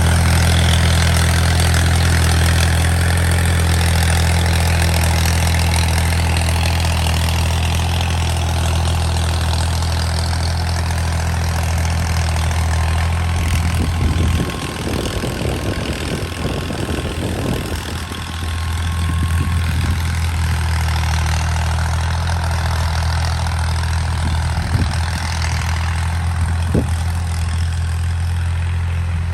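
Tractor diesel engine running steadily while working a rotavator. Its deep steady note breaks up for a few seconds around the middle, then settles back.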